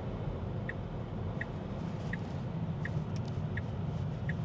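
Tesla turn-signal indicator ticking evenly, about once every 0.7 seconds, over a steady low road rumble in the cabin as the car makes a right turn.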